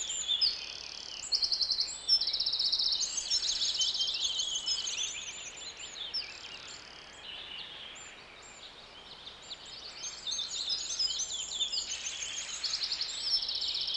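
Songbirds singing and chirping, with fast trills and chirps overlapping. The song thins to a lull in the middle and then picks up again.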